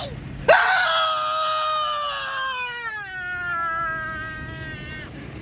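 A person's long, high-pitched wail with no words: one held cry that starts suddenly and slowly falls in pitch for about four and a half seconds before cutting off.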